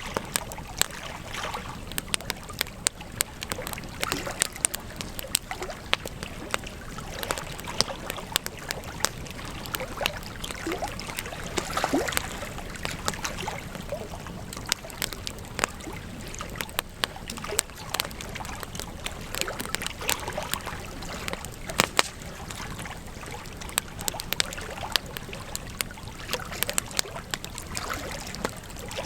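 Wood campfire burning, crackling with frequent sharp, irregular pops over a steady hiss.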